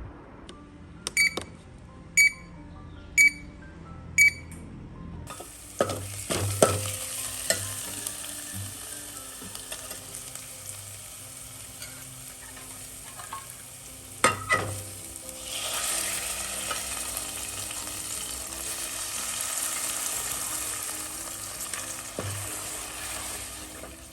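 Four short beeps about a second apart. Then food sizzling in hot oil in a pan, starting suddenly about five seconds in, with a few knocks of a utensil against the pan. The sizzle grows louder past the middle.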